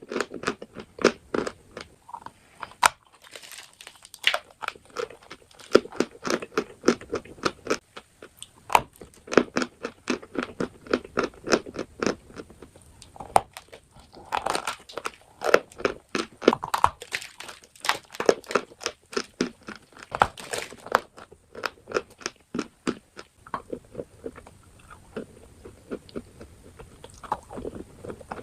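A person biting and chewing dry edible chalk and clay, a steady run of short sharp crunches several times a second, louder for a few seconds in the middle.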